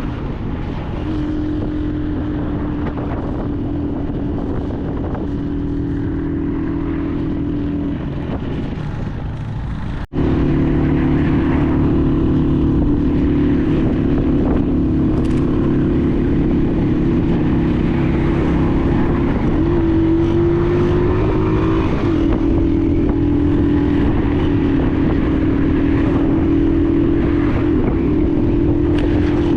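Honda 125 motorcycle's single-cylinder engine running steadily under way, with road and wind noise. The sound drops out for an instant about ten seconds in and comes back louder, and the engine note rises and falls slightly a few times later on.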